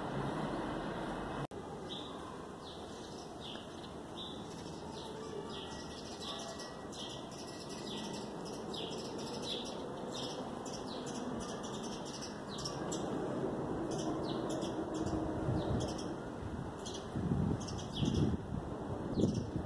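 Small birds chirping over and over, short falling chirps about once or twice a second, over a steady low background hum, with louder irregular low rumbles near the end.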